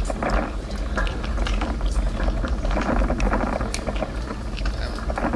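Wind rumbling on an outdoor microphone, with irregular crackling over it.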